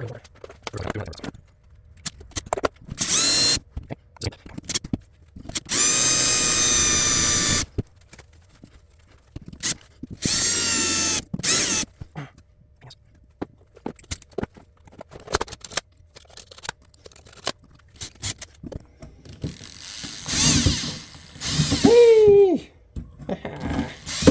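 Electric drill drilling out a stuck screw, running in several short whining bursts with small clicks and taps between them. Near the end the pitch of one burst falls as the drill winds down. The footage is sped up.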